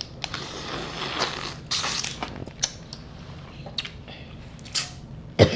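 Snow crab legs being cracked and their shells peeled apart by hand: a run of small snaps, crackles and scrapes, with a sharper snap near the end.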